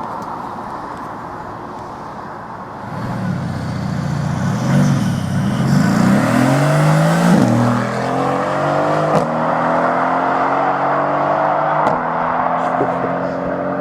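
Car engine revs up and down a few times, then pulls away accelerating, its pitch climbing with short dips at a couple of gear changes.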